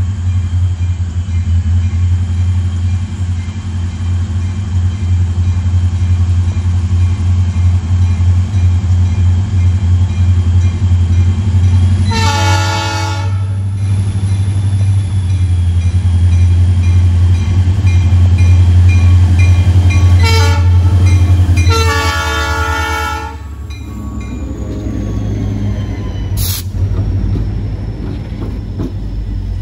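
Diesel locomotive passing close by with its engine rumbling, sounding its multi-chime horn: a long blast about twelve seconds in, a short one near twenty seconds, then another long one. After the locomotive passes, the rail cars roll by with a steady clatter, and there is one sharp knock near the end.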